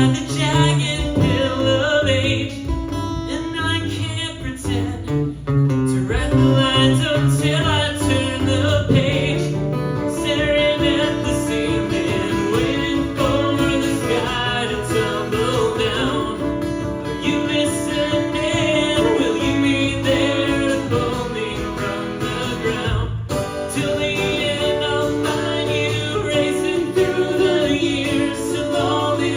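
Live acoustic performance of a song: a voice singing over strummed and picked acoustic guitar.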